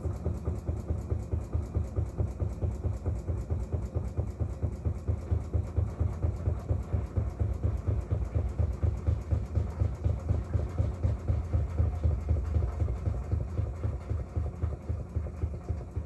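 Whirlpool washing machine on its spin cycle with a heavy load of towels: a low, even throb pulsing several times a second as the drum spins.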